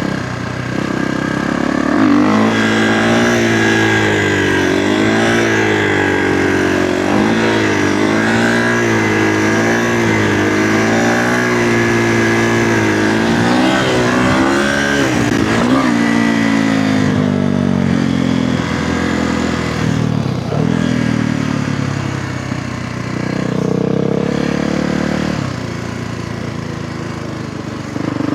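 Kawasaki KX450F dirt bike's single-cylinder four-stroke engine under riding, its revs rising and falling again and again through the first half, then running at a lower, steadier pitch.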